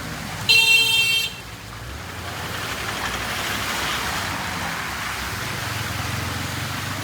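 A high-pitched vehicle horn blasts once for just under a second near the start, followed by a steady hiss of traffic on the waterlogged road with a low engine hum that grows toward the end.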